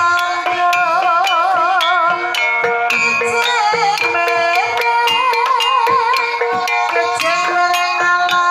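Banyumasan gamelan music for tayub: a sinden sings a wavering line with vibrato over sustained metallophone tones and frequent sharp drum and percussion strokes.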